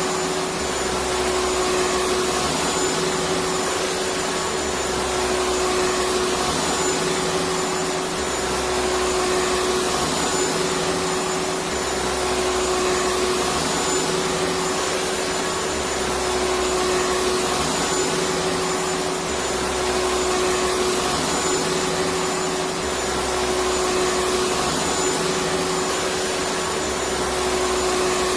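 Electric vacuum cleaner running continuously: an even hiss with a steady hum-like whine, and a slight swell in loudness every few seconds.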